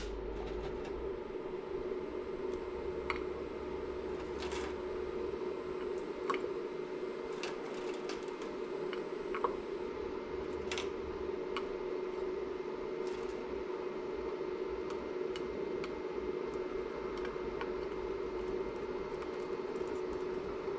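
VEVOR electric melting furnace running with a steady hum, with scattered light clicks and taps over it.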